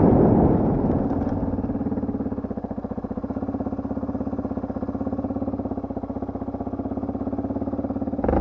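Enduro motorcycle engine falling from loud running to a steady idle with an even pulsing beat, then picking up again suddenly near the end.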